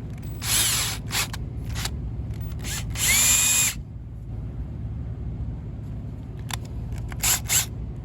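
Ridgid cordless drill run in short trigger bursts, its motor whirring briefly several times. The longest and loudest run, under a second, comes about three seconds in, with its pitch rising and then holding.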